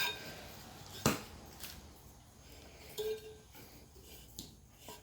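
Parts of a surface cleaner being handled and fitted together: a sharp click about a second in, a short squeak near three seconds, and a few light clinks.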